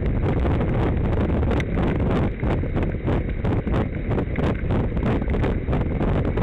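Wind buffeting the microphone of a camera riding along on a moving bicycle: a steady low rumble with a rapid flutter.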